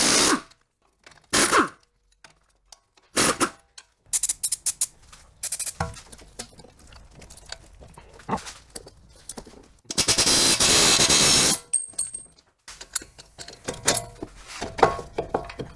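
Impact wrench running in short bursts of about a second, undoing the strut-to-knuckle bolts and hub nut on a car's front suspension. Between the bursts come clinks and knocks of tools and metal parts.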